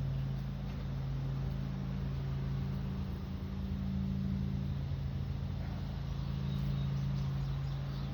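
A steady low mechanical hum, like a motor or machine running.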